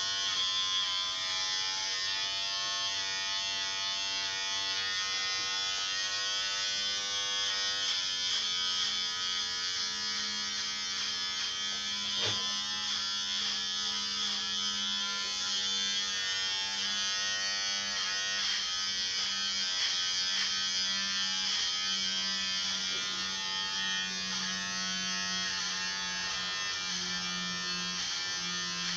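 Electric hair clippers running steadily as they cut hair, a continuous motor buzz whose pitch shifts slightly now and then.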